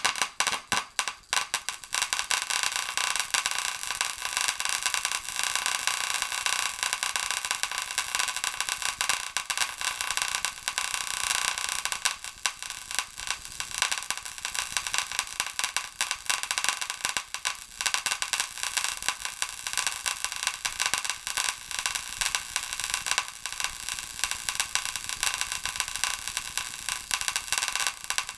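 Paradigm PW 2100 v2 subwoofer amplifier board crackling and popping in a dense, unbroken run of rapid clicks while powered: the sign of an electrical short on the circuit board.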